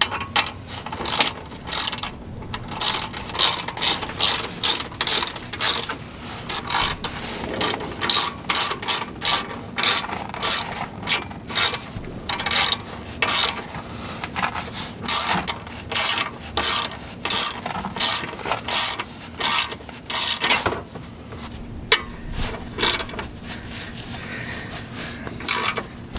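Ratchet wrench clicking in repeated short strokes, tightening an exhaust clamp on the downpipe connection, with a couple of brief pauses.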